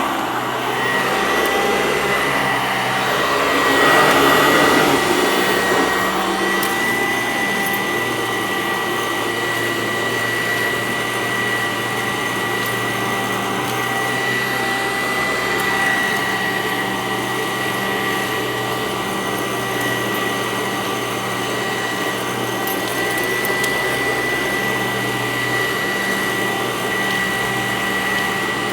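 Sanitaire SC886 commercial upright vacuum cleaner running over carpet: a steady motor whine, with a brief louder surge about four seconds in.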